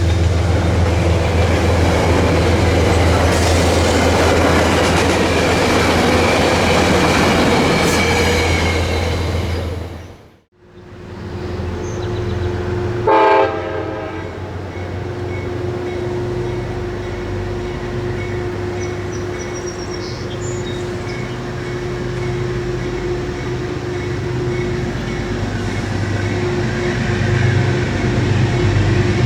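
A train passing close by with loud rail and running noise, dying away about ten seconds in. Then a short train horn blast, followed by a train running with a steady hum that grows louder near the end.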